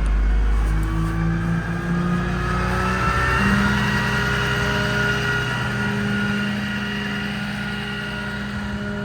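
Ram 5500's Cummins 6.7-litre inline-six turbodiesel running under load as the truck accelerates. The engine note rises for about three seconds, then holds steady.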